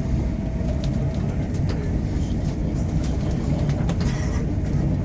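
Passenger train running, heard from inside the carriage: a steady low rumble with scattered light clicks.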